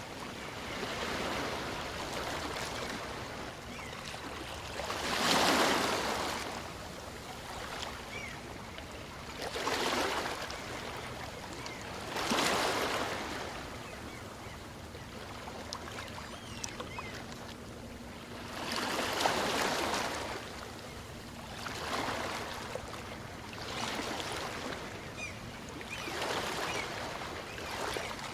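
Gentle waves on a calm sea washing in and drawing back on a beach: a steady hiss of water that swells into a louder surge every few seconds and fades again.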